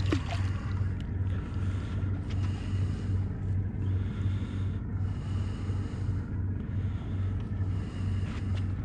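Boat engine idling with a low, evenly pulsing hum, under wind and water noise.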